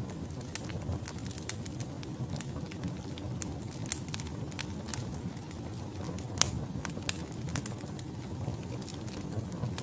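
Wood logs burning in a fireplace: a steady low rumble of flames with irregular sharp crackles and pops, the loudest about four and six and a half seconds in.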